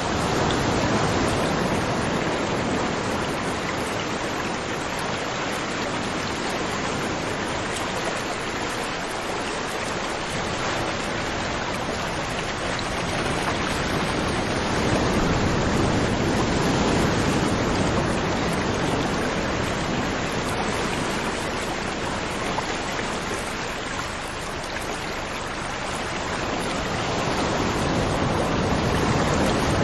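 River water flowing over rocks in a steady, rushing stream, swelling and easing gently every several seconds.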